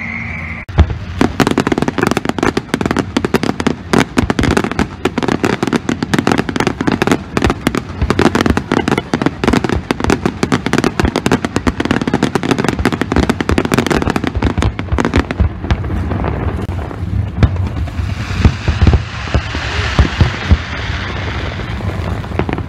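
Fireworks display: a dense, rapid volley of bangs and crackling starting about a second in, thinning after about fifteen seconds into a hissing sizzle with scattered louder bangs.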